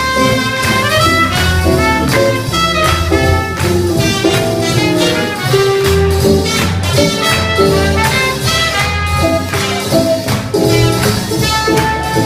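Swing jazz played by a band, with horns carrying the melody over a steady dance beat.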